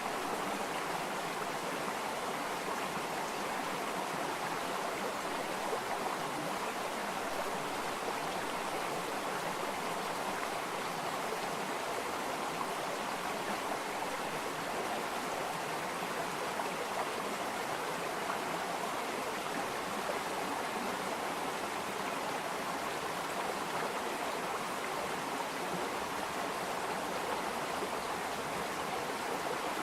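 Water flowing in a stream, a steady, even rush of running water.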